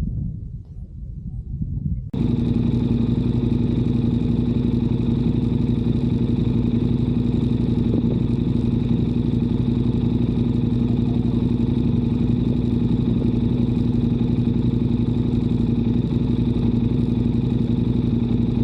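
Motorcycle engine running at a constant speed with a steady, unchanging note, starting abruptly about two seconds in; before it, a low, uneven rumble.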